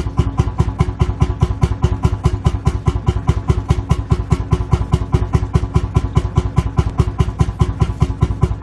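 Lanz Bulldog tractor's single-cylinder two-stroke hot-bulb engine idling, an even beat of about four to five firing strokes a second.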